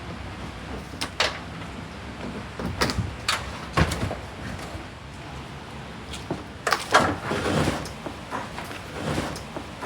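Car trim parts being handled: several sharp plastic clicks and knocks, then a longer rustling scrape about seven seconds in, with more knocks near the end.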